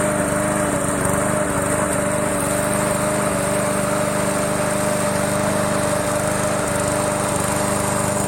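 Remote-controlled push lawn mower running steadily as it cuts grass: an even engine note with a steady high whine over it.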